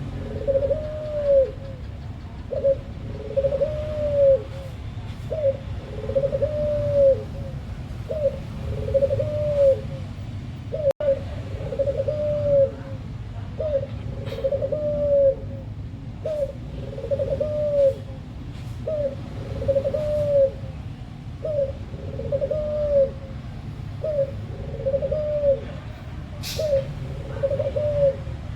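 Puter (Barbary dove) cooing over and over in an even rhythm, each coo a short note followed by a longer arched note, repeating about every second and a half. A steady low hum runs underneath.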